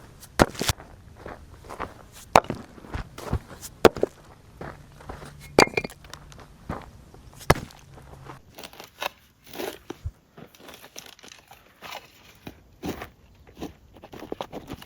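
Footsteps on dry ground, uneven in pace, with a few sharper knocks among them.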